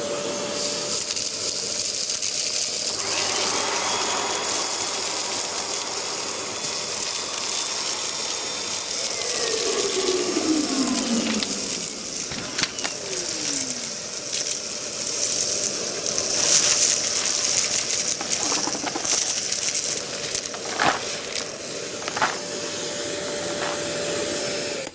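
Kärcher multi-purpose wet and dry vacuum running with a steady whine, sucking up dust, shingle and stones, with sharp clicks of debris at times and two short falling whistles midway. The motor switches off right at the end and its whine drops away.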